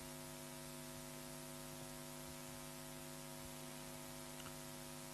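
Steady electrical hum, a stack of unchanging tones, under a faint even hiss.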